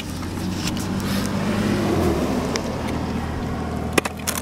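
A vehicle engine idling with a steady low hum, under rustling handling noise as the camera is swung about, with a few sharp clicks about four seconds in.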